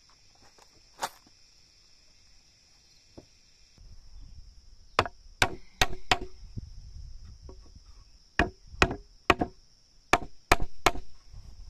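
Wood being chopped with a blade: one blow about a second in, then about ten sharp blows in quick clusters of two to four.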